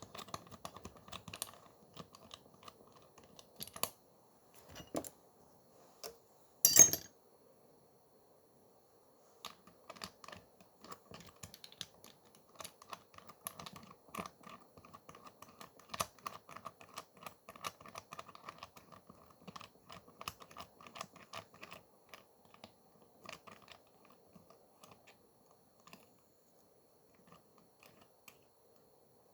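Light, rapid clicking and tapping, in dense runs, with one much louder sharp click about seven seconds in.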